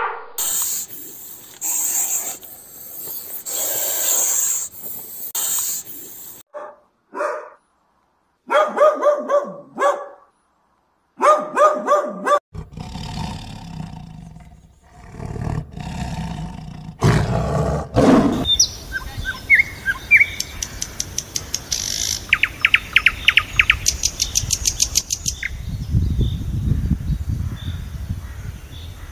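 A run of different animal calls cut one after another: short repeated pitched calls, then rapid high chirps, then a low, noisy call near the end.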